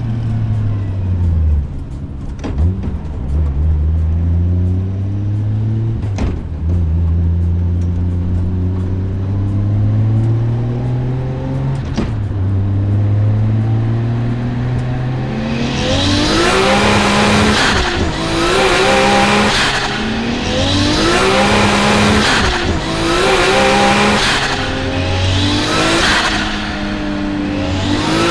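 A car engine pulls hard, its pitch climbing slowly and dropping once at a gear change. About halfway through the car begins drifting: the engine revs up and down while the tyres screech in repeated bursts, about one every two seconds.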